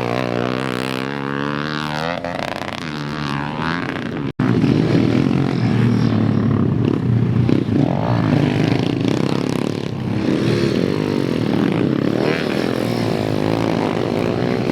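Motocross dirt bike engines revving, the pitch rising and falling as the bikes ride around the track. The sound drops out for an instant about four seconds in, then several bikes run at once, denser and louder.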